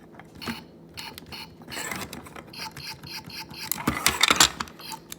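Electronic sound effects from a toy Caterpillar steamroller's sound unit, playing through its small speaker as a stuttering run of short, evenly repeating blips with clicks. A loud clatter of clicks comes about four seconds in. The toy's electronics are glitchy and cut in and out as if on low batteries.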